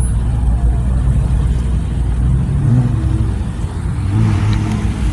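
A car engine running with a steady deep rumble.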